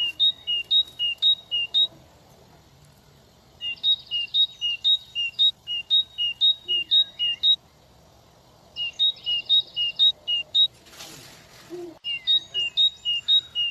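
A small bird singing a repeated two-note phrase, a higher note then a lower one, about four pairs a second. It comes in three bursts of two to four seconds with pauses between. A short burst of rustling noise comes about eleven seconds in.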